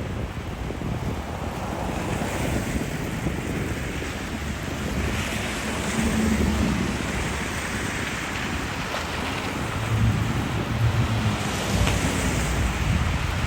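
Wind buffeting the microphone over a steady rumble of city traffic, swelling louder twice as vehicles pass.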